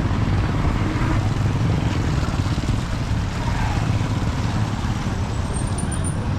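A motor vehicle running steadily on the road, with a low, rapidly pulsing engine sound mixed with road and wind noise.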